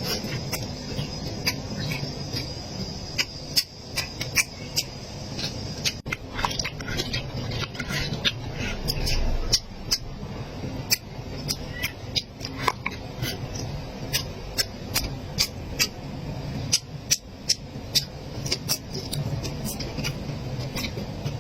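Close-miked eating sounds: chewing with many sharp, irregular lip smacks and mouth clicks over a steady low background noise.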